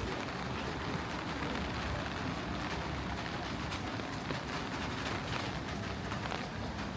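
Steady rain falling in a city street: an even hiss with many small drop ticks scattered through it.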